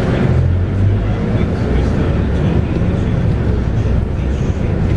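Scania K230UB bus's 5-cylinder DC9 diesel engine running under way, heard from inside the bus as a loud, steady low drone.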